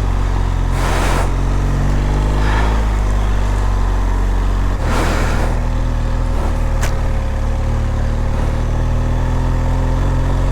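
BMW R1200GS boxer-twin engine running steadily under way, heard from a helmet microphone. The engine note changes about halfway through, and there are two brief rushes of noise, one about a second in and one near the middle.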